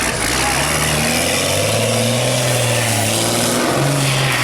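Competition trial truck's engine running under load and revving, its note shifting up and down in steps.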